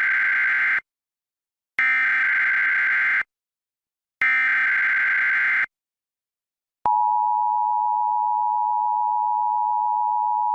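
Emergency Alert System signal: three raspy electronic data bursts of the digital alert header, each about a second and a half long with short silences between, then the steady two-note attention tone starting about seven seconds in.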